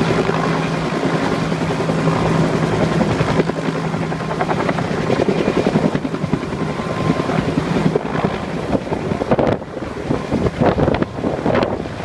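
Bell UH-1 Huey helicopter running with a steady drone from rotor and turbine. The drone falls away about eight seconds in, leaving gusty wind buffeting the microphone.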